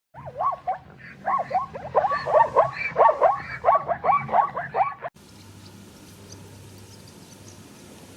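Many rapid, overlapping animal calls, short yelping cries that rise and fall in pitch, which stop abruptly about five seconds in. A faint steady outdoor background follows.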